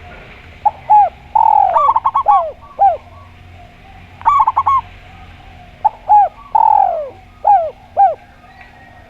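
Doves cooing: a spotted dove (tekukur) and a zebra dove (perkutut) calling, in two phrases a few seconds apart. Each phrase has short hooked coos, a longer falling coo and a quick run of staccato notes.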